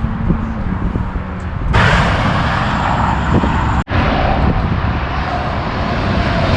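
Loud rushing vehicle noise that jumps up sharply about two seconds in, drops out for a split second near four seconds, then goes on and builds.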